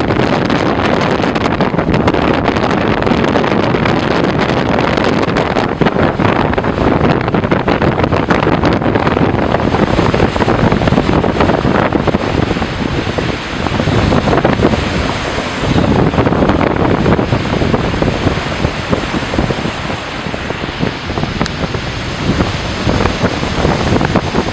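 Storm wind buffeting the microphone over surf breaking on a rocky shore, a loud noise that swells and eases with the gusts and waves.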